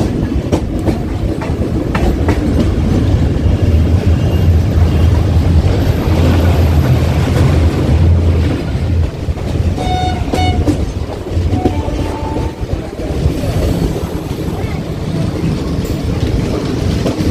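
Passenger train running on the track, a steady rumble with the clickety-clack of wheels over rail joints. About ten seconds in, a train horn sounds two short blasts.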